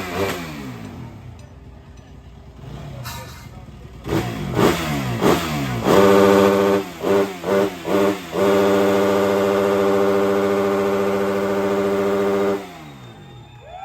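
Motocross bike engine revving hard: several quick bursts of throttle, then held steady at high revs for about four seconds before the revs drop away near the end.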